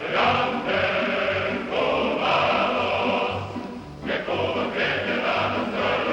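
Choral music: a choir singing over an accompaniment, with a brief dip in volume about four seconds in.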